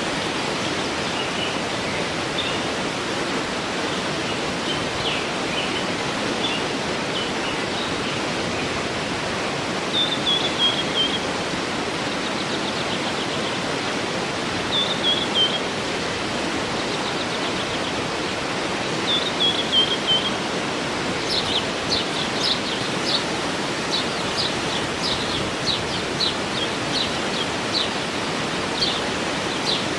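Waterfall rushing steadily, with birds singing over it: short falling phrases about ten, fifteen and twenty seconds in, then a run of quick, sharp chirps through the second half.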